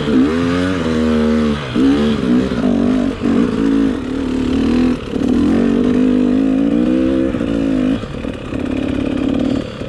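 Dirt bike engine revving, its pitch climbing and dropping again and again as the throttle is worked on and off. Later it holds steadier for a few seconds at a time, with brief drops.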